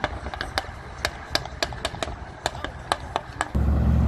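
A run of scattered sharp clicks, then, about three and a half seconds in, a car engine cuts in suddenly, loud and low, running hard close by as a car takes off.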